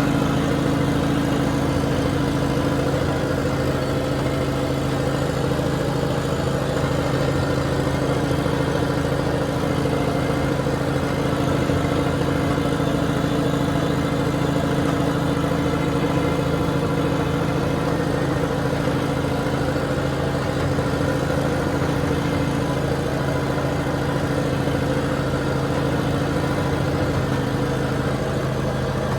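Heavy equipment engine running steadily at a constant speed, an even drone with no revving or breaks.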